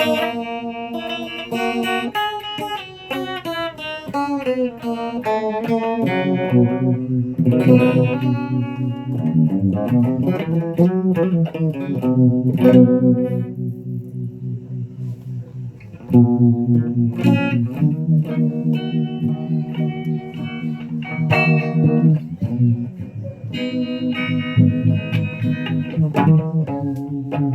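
Guitar being played through an effects unit: sustained chords with notes sliding and bending in pitch, and fresh chords struck every few seconds.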